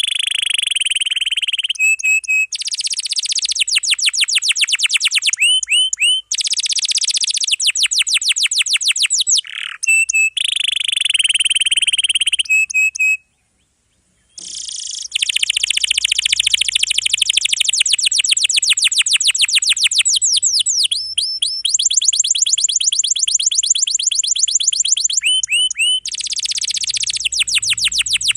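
Domestic canary singing long, dense rolls: very fast trills of rapidly repeated rising notes, switching between roll types, with a full break of about a second near the middle.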